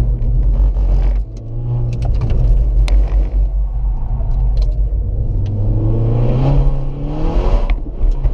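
Skoda Octavia RS engine heard from inside the cabin, pulling hard on track. There is a brief dip about a second in. From about halfway through the pitch climbs steadily, then drops sharply near the end as it shifts up.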